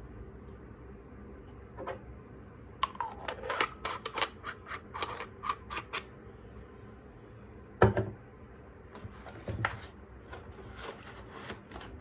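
Hard parts of a manual coffee grinder and its packaging being handled: a quick run of light clicks and clinks for about three seconds, a single louder knock near the eight-second mark, then scattered softer clicks.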